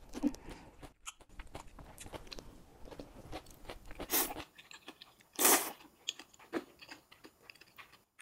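Close-miked chewing and crunching of stir-fried vegetables and udon noodles, with many small wet clicks. There are two short, louder bursts about four and five and a half seconds in.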